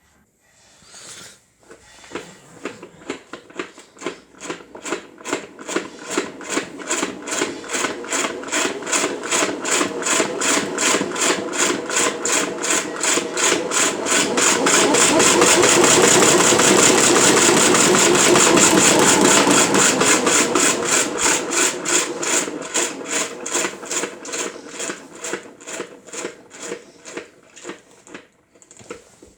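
Mop spinner spinning: a rapid, even ticking that speeds up and grows louder to a peak about halfway through, then slows and fades as the spinner winds down.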